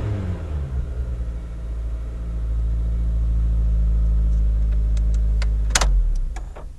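Honda Civic Si's 2.0-litre four-cylinder engine dropping back from a rev and idling steadily, heard from inside the cabin. Near the end come a few sharp clicks and one louder clunk, and the engine sound then dies away.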